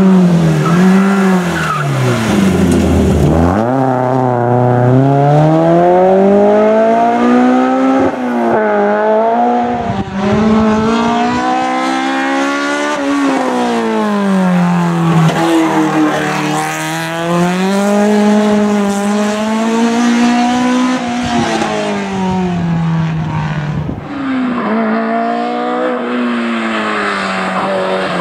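BMW M3 E30 competition car's four-cylinder engine at full throttle, its pitch repeatedly climbing as it revs out and then dropping sharply at gear changes and lifts, about half a dozen times. Near the start the pitch falls steeply to a low note and then climbs again.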